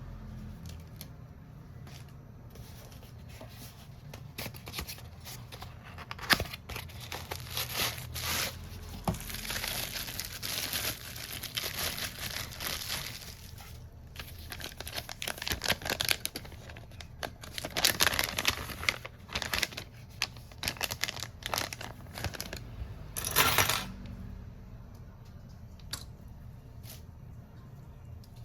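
Irregular crinkling and tearing sounds from handled material, mixed with sharp clicks and taps, in bursts between about 6 and 24 seconds in, over a steady low hum.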